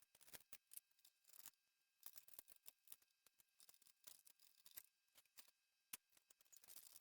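Faint, irregular clicks and light scrapes of the Dyson DC39 vacuum's plastic parts being handled and fitted back together during reassembly.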